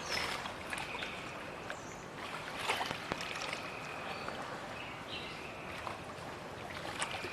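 Flood-stage river water rushing steadily past the bank, with a few short, high, steady whistle-like notes over it.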